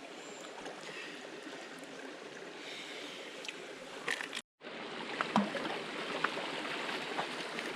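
Flowing river water, a steady running and trickling, with a few small ticks or splashes. About halfway through it drops out completely for a moment, then returns slightly louder.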